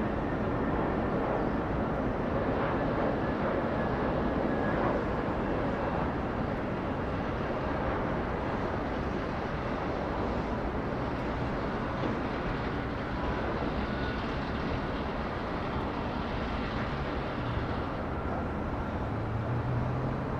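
Jet airliner engine noise heard across an airport: a steady roar that eases slightly after the first few seconds.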